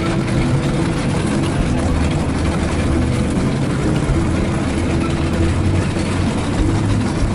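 A vehicle's engine running steadily, a constant low hum over a rumble.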